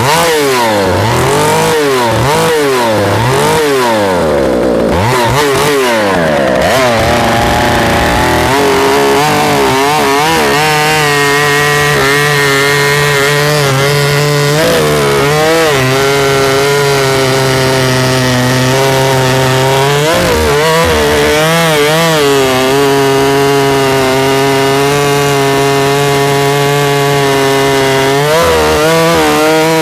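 Big 90cc-class professional chainsaw with a 32-inch bar, revved up and down several times, then held at full throttle cutting through wood. Its pitch dips briefly now and then as the chain takes load.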